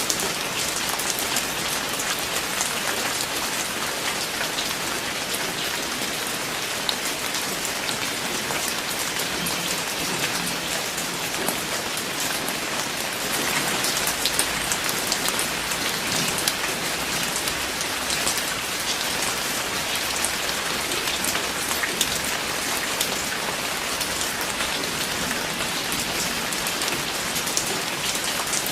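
Steady rain falling and pattering on a surface, a dense hiss with many fine individual drop ticks, swelling slightly for a few seconds around the middle.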